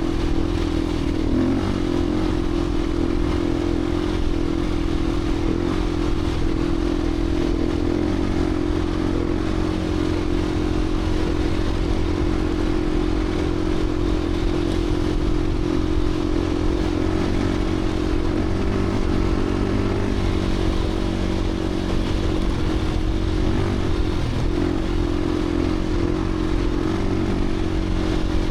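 Beta 350 RRS dirt bike's single-cylinder four-stroke engine running under way, holding a fairly steady engine speed.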